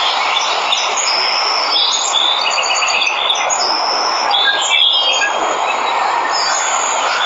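Steady rushing of a waterfall, with birds calling over it: a run of short chirps and trills between about one and five seconds in.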